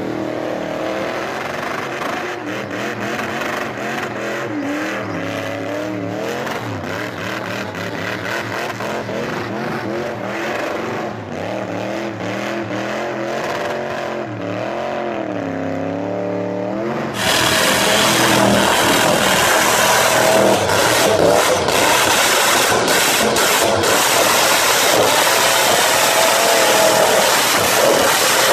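V8-swapped classic Mini revving hard in a burnout, the engine note climbing and falling as the throttle is blipped, with the rear tyres spinning. About 17 seconds in the sound jumps louder and harsher, the engine held near the top of its revs with the tyres screaming.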